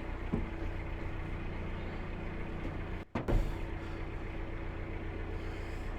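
Narrowboat's diesel engine running steadily with an even low hum. About three seconds in, the sound cuts out briefly and comes back with a single loud thump.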